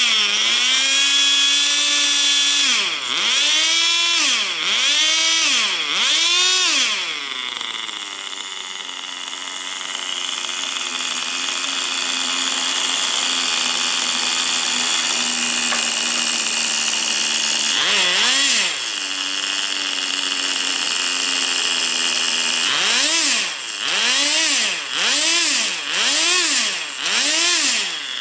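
Small glow (nitro) engine of a Tamiya TGS 1/10 RC car revving in quick throttle blips, each rising and falling in pitch, then held at a steady high pitch for about ten seconds, with the blips starting again near the end. The engine is running well.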